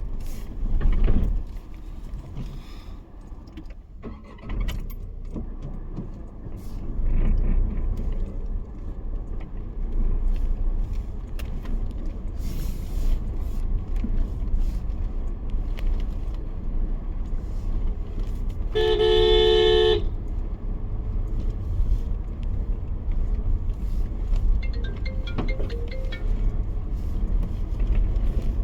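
Road traffic running past with a steady low rumble. A car horn honks once for about a second, roughly two-thirds of the way through.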